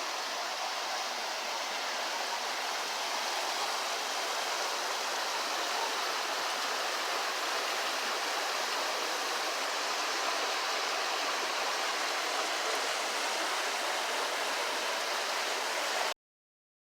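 Steady rush of running stream water, an even hiss with no let-up, that cuts off suddenly near the end.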